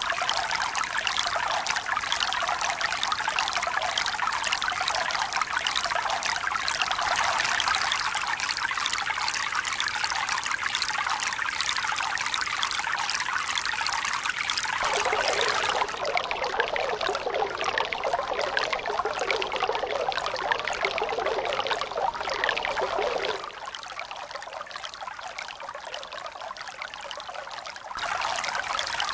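Steady flowing, trickling water. About halfway through the sound changes abruptly to a fuller, lower rush. Near the end it drops quieter for about four seconds, then returns.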